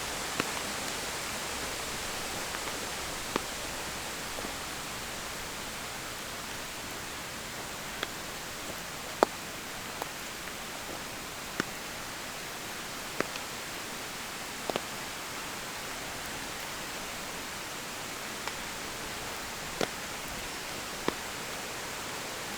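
Steady hiss of rain falling in a forest, with scattered sharp ticks at irregular intervals every second or two.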